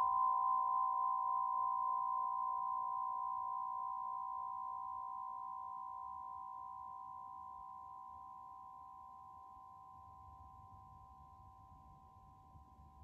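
A struck resonant instrument ringing out: two steady, pure tones that fade slowly and evenly, with no new strike.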